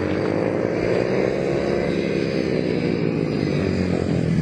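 Several 110cc mini motorcycle engines running together, their overlapping pitches rising and falling as the riders work the throttles.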